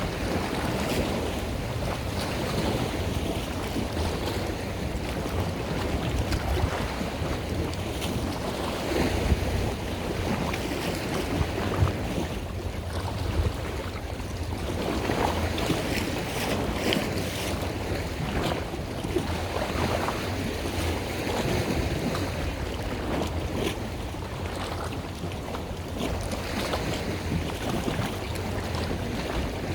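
Wind buffeting the microphone over the wash of water, a steady low rumble with gusts that swell and fade.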